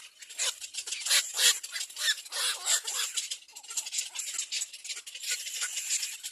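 Nestling birds begging for food: many short, raspy calls in quick succession.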